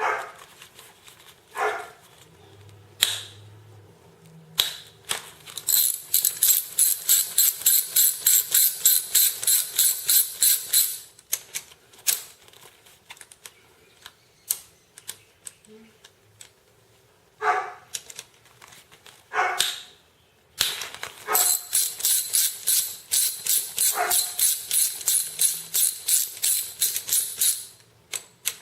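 Ratchet wrench turning engine bolts out, two long runs of fast, even clicking at about five clicks a second, the first about six seconds in and the second past the twenty-second mark. A few short, sharp sounds fall between the runs.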